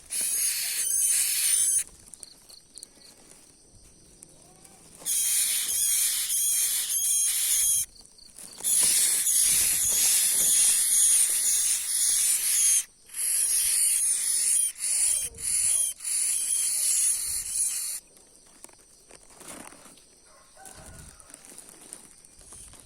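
Prinia nestlings begging: shrill, rapid high-pitched chirping in several bouts that start and stop abruptly, with short quiet gaps between.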